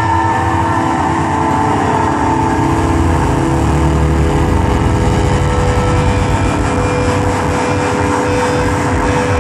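Loud live rock band playing: a dense, steady wall of sound with a few held notes.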